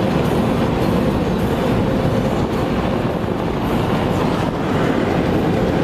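Car wash blow dryers blasting air over the car, heard from inside the cabin: a strong, steady rush of air with a faint hum under it.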